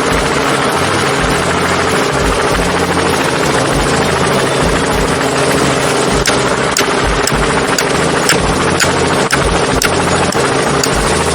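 Helicopter running steadily, its engine noise overlaid with a repeated low beat of the rotor blades.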